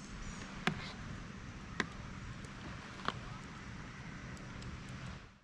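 Three sharp clicks over a steady outdoor background hiss, about a second apart, then the sound cuts off abruptly.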